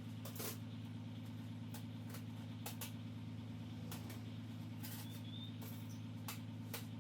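Irregular light clicks and taps of transmission parts and tools being handled during a rebuild, about ten in all, over a steady low hum.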